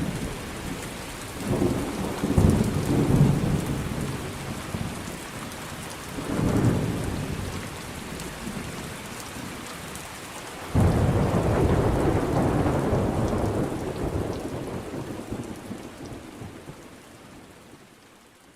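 Rain falling steadily through a thunderstorm, with rolling thunder: rumbles about a second and a half in and again around six seconds, then a sudden crack near eleven seconds that rumbles away. The whole storm fades out near the end.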